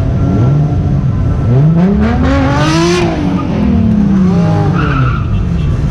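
A car engine revs up, peaking about three seconds in, then falls away, with a brief tyre screech at the peak, over a constant low engine rumble.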